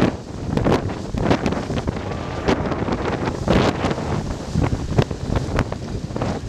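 Strong wind of about 14 m/s buffeting the microphone aboard a sailing yacht under way: a steady rush broken by many sharp, gusty thumps.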